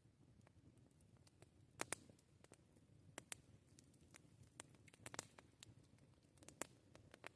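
Wood campfire crackling: sparse, irregular sharp pops and ticks, some in quick pairs, over a faint low rumble. The loudest pops come about two seconds in and about five seconds in.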